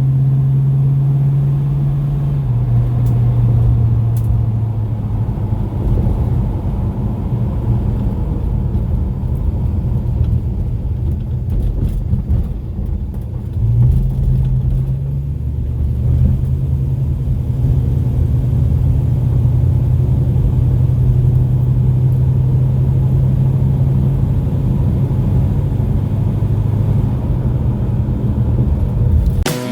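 Crate 350 small-block V8 engine of a 1948 Chevrolet Fleetmaster street rod running with a steady low rumble. Its pitch drops a few seconds in, rises about halfway through, and drops again near the end.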